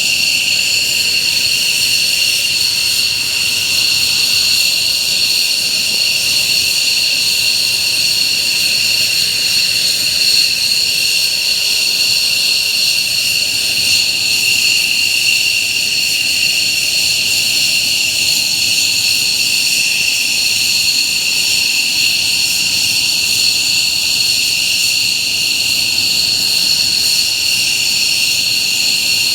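F-15J fighter jet engines running steadily on the ground, a loud, even high-pitched whine over a rushing roar.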